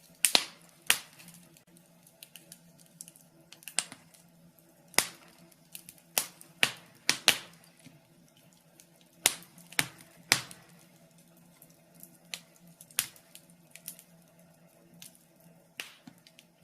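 Wood fire in a fireplace crackling, with sharp pops at uneven intervals, a few clustered close together, over a faint steady hum.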